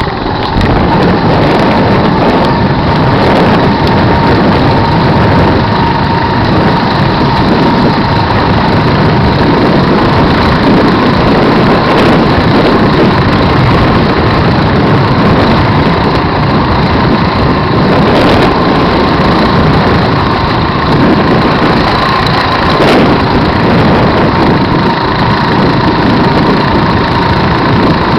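Helicopter running close by: loud, steady engine and rotor noise with a steady high whine over it.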